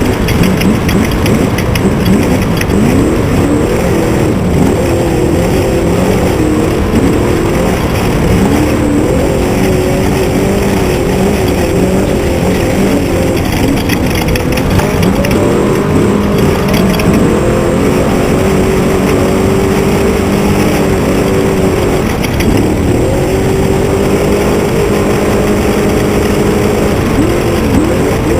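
Truck engine running loudly under a heavy rumble, its pitch rising and falling as the revs change.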